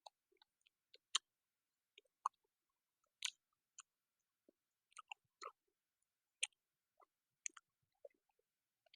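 A person chewing food close to the microphone: soft, irregular wet mouth clicks and smacks, one or two a second.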